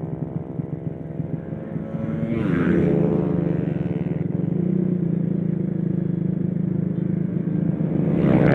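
Freshly rebuilt small motorcycle engine running under way. Its pitch drops sharply about two and a half seconds in, then holds a steady, louder note.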